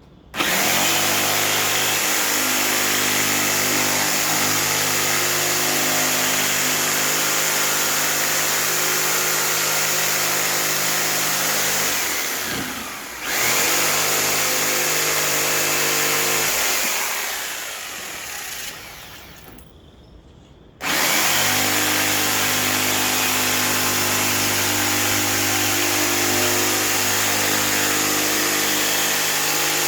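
Electric power saw running while cutting out the marked side and handrail pieces from wooden boards. It starts just after the beginning, dips and comes straight back up about twelve seconds in, winds down to a stop between about seventeen and twenty seconds, then starts again about a second later and runs on.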